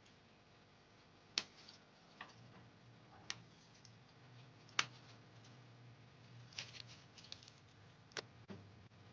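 Scattered light clicks and taps, single ones a second or so apart with a quick flurry of several about two-thirds of the way through, over a faint low hum.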